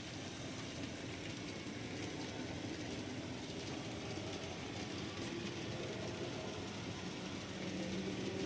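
A model train running steadily on its track, with a faint motor hum.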